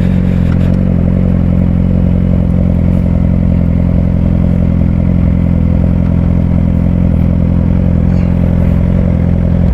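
Suzuki GSX-R600 sportbike's inline-four engine running steadily at a constant engine speed, with no revving.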